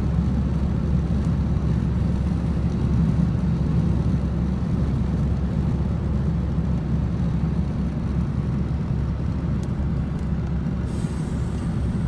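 Steady low road and engine rumble of a car driving at highway speed, heard inside the cabin. A faint high hiss joins near the end.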